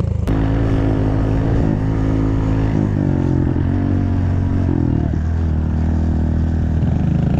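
Pit bike engine running steadily, its pitch shifting slightly now and then, with a sharp click about a quarter second in.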